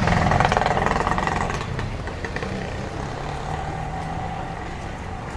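A motor vehicle's engine passing close by, loudest for the first second and a half and then fading away into steady street traffic noise.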